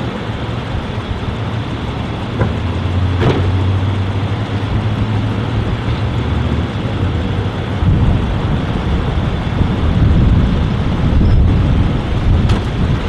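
Dodge Charger sheriff's patrol car idling with a steady low hum. From about eight seconds in, gusts of wind rumble on the microphone.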